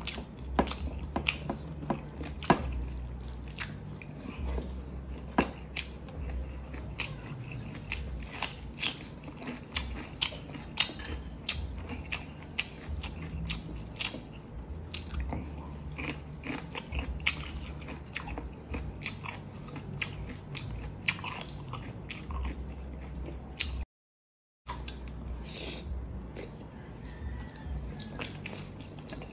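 Close-up mouth sounds of eating: wet chewing, lip smacks and irregular crisp crunches from bites of chicken adobo with rice and raw cucumber sticks, over a low steady hum. The sound drops out completely for under a second about three-quarters of the way through.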